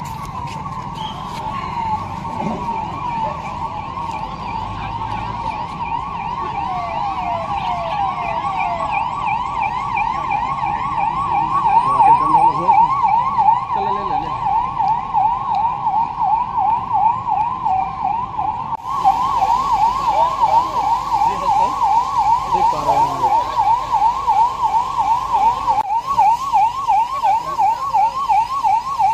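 Electronic emergency siren in a rapid yelp, sweeping up and down about three times a second, sounding for a mock safety drill.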